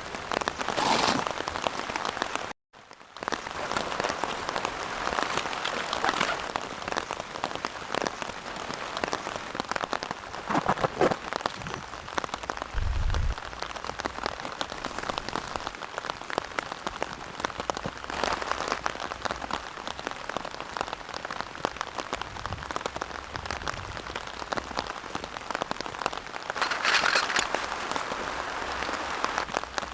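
Steady rain falling, a dense spatter of drops striking a surface. It cuts out briefly about two and a half seconds in, and a short low thump comes about halfway through.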